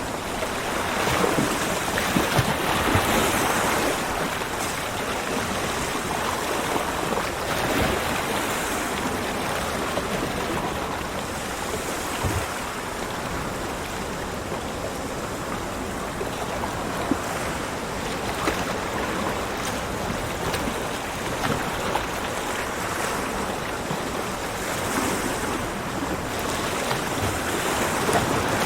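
Ocean waves breaking and washing up on a beach, a continuous surf with gentle swells as each wave comes in, strongest at the start and again near the end.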